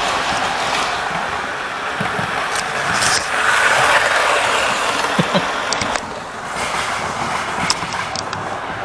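Model train running along the track, its motor and wheels making a steady whirring rush that grows louder for a couple of seconds in the middle as it passes close, with a few light clicks.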